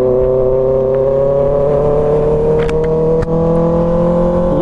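Kawasaki ZX-6R's 636 cc inline-four engine running steadily under way, its pitch climbing slowly and evenly as the bike gains speed, with a couple of faint clicks about midway.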